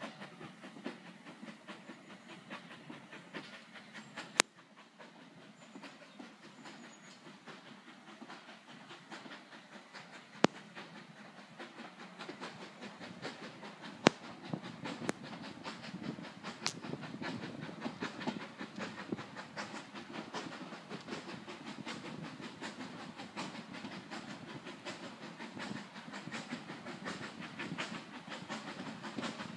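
Steam-hauled train running along the line, heard from an open carriage window: a steady rattle and clatter of coach wheels on the track, with a few sharp clicks standing out. It grows louder about halfway through.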